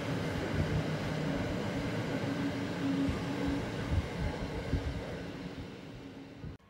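Double-deck car-transporter freight wagons rolling past on the rails: a steady rumble with a low hum and a few knocks from the wheels. It fades as the last wagon goes by and cuts off suddenly near the end.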